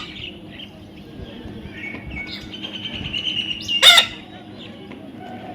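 Parrot calling: soft chirps and a held whistled note, then one loud, short call about four seconds in.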